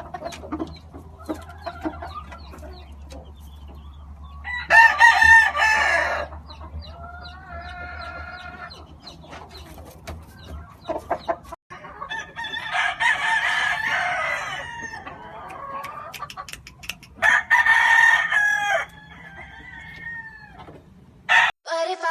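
Roosters crowing in turn, with several loud crows and a fainter one farther off, and hens clucking between them. A low steady hum runs underneath for the first half.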